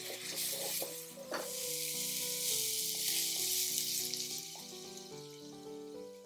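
Minced onion frying in a frying pan over medium-low heat, sizzling steadily while a spatula stirs and scrapes it across the pan; the sizzle dies away about four and a half seconds in.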